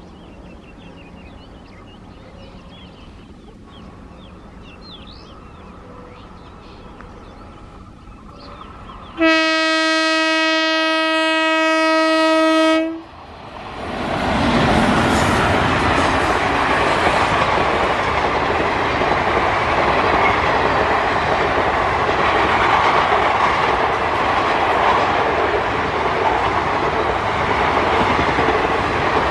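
An Indian Railways electric locomotive approaches, and its horn sounds one long steady blast about nine seconds in, lasting about four seconds before it cuts off sharply. Then the train passes close by at speed, with a loud, steady rumble and clatter of coach wheels on the rails.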